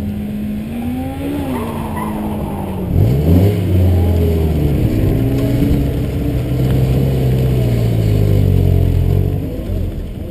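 Car engines at close range: an engine blips up and back down about a second in, then about three seconds in an engine revs up sharply and holds a loud, steady note for about six seconds before dropping away.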